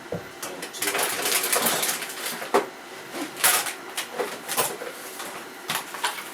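Bench handling noises: a stretch of rustling about a second in, then several sharp clicks and taps spaced about a second apart.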